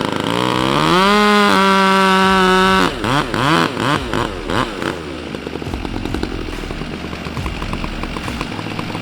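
Two-stroke chainsaw revved up to full throttle about a second in and held there for over a second, then blipped a few times before dropping back to an uneven idle.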